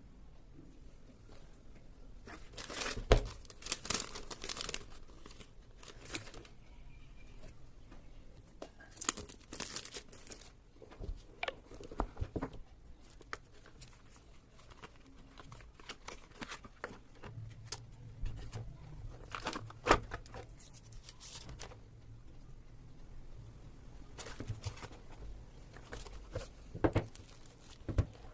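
Phone packaging being opened by hand: plastic wrap and box material torn and crinkled in irregular bursts of crackling, with sharp clicks and snaps between them.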